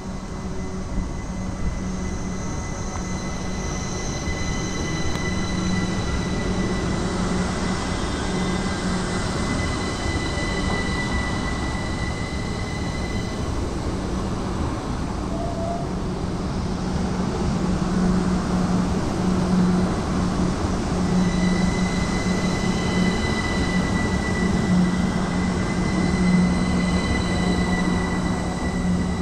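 Train running past, a steady low drone under thin, steady high-pitched tones. The high tones fade away around the middle and return for the last few seconds.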